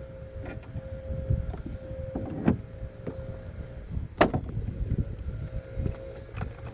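Low rumbling noise, like wind buffeting the microphone, under a faint steady hum that comes and goes. Several sharp knocks, the loudest about four seconds in.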